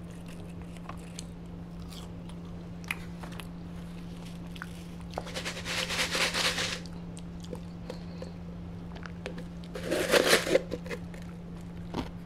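Close-miked eating sounds: soft chewing and small mouth clicks over a steady low hum. There are two louder rustling bursts, about five seconds in and again about ten seconds in, as a paper drink cup full of ice and a napkin are handled.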